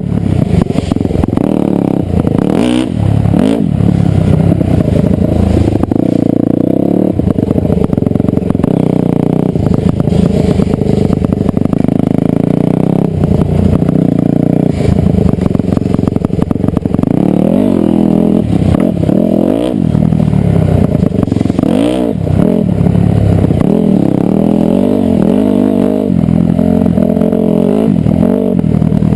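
Dirt bike engine under way, loud and continuous, revving up and dropping back again and again, with repeated rising and falling pitch sweeps.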